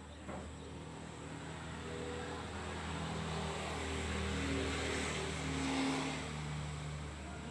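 A motor vehicle's engine passing by, growing louder to a peak about six seconds in and then fading.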